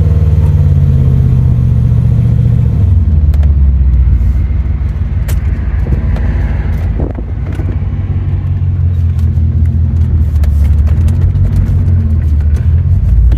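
1990 Chevrolet Corvette's V8 engine running under way, holding a steady note, then dropping to a lower pitch about three seconds in and running steadily at the lower speed.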